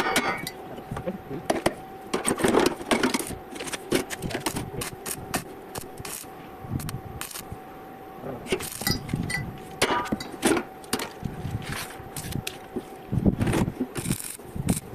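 Iron pieces clinking, knocking and scraping as they are handled and tapped during welding fabrication, with short irregular strikes over a steady hum that stops near the end.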